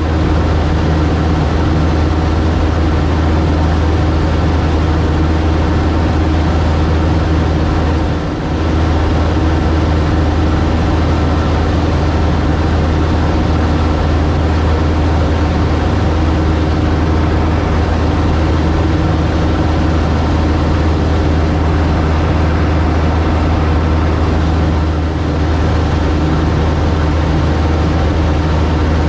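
Cub light aircraft's piston engine and propeller droning steadily in flight, with a brief dip about eight seconds in.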